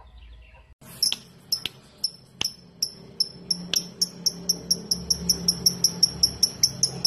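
Lovebird giving its rapid 'ngetik' (typing) call: a train of short, sharp, high chips that begins about a second in and speeds up to about five a second. A few sharp clicks fall among the first chips.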